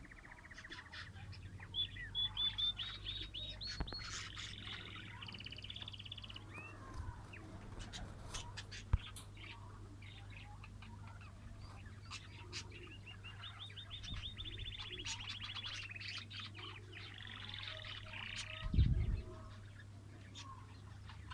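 Lovebirds chattering: rapid trains of high, buzzy chirps and sharp clicks that come and go, over a steady low hum. A dull low thud comes near the end.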